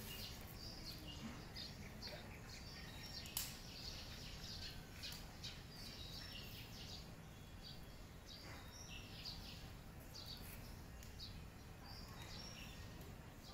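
Faint birds chirping in short repeated calls over a steady low background rumble, with one sharp click about three seconds in.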